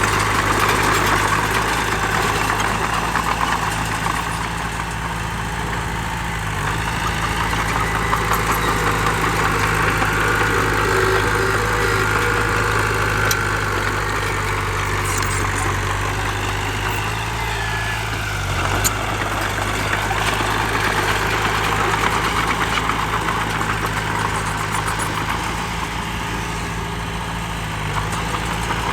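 Heavy diesel engine of an earth-moving machine running steadily, over a mid-range rattling noise that swells and fades, with one sharp knock about two-thirds of the way through.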